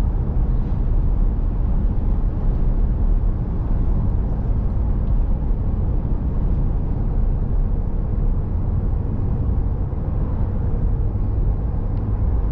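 Steady low rumble of road and engine noise from inside a moving vehicle, even throughout with no distinct events.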